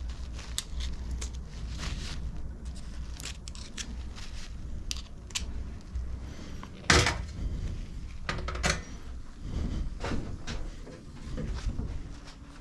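Tools and mower parts being handled on a workbench: scattered clicks, clinks and knocks, the loudest a sharp knock about seven seconds in.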